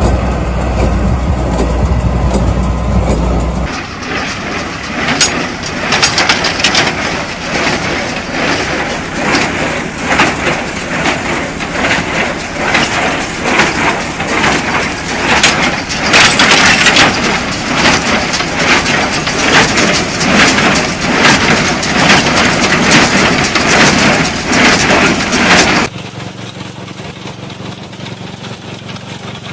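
Hay baler at work: a machine running with dense crackling and snapping as hay is gathered and compressed. It breaks off abruptly twice, first from a low steady engine hum into the crackling a few seconds in, then near the end into a quieter engine running.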